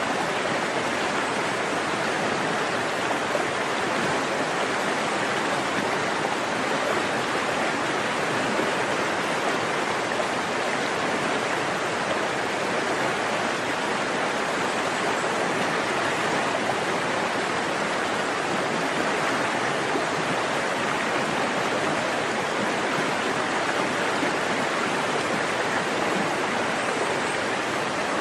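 Forest stream flowing steadily, a constant rushing of water over the streambed.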